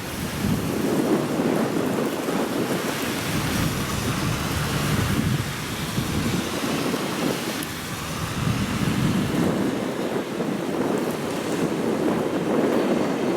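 Typhoon-strength gusting wind buffeting the microphone: a low rushing noise that swells and eases every few seconds.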